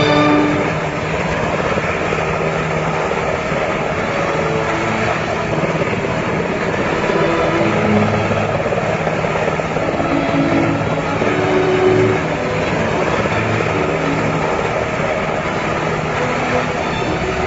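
Helicopter running, a steady loud drone of rotor and engine noise.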